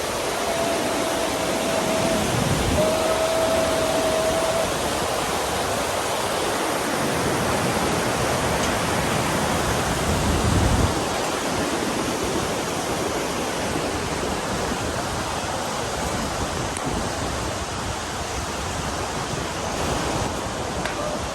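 Steady rush of a fast mountain river, a dense even roar of water. A faint thin whistling tone is heard twice in the first few seconds.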